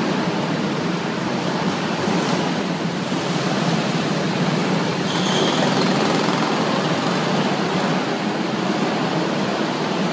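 Go-kart engines running around an indoor kart track: a steady drone that echoes through the hall.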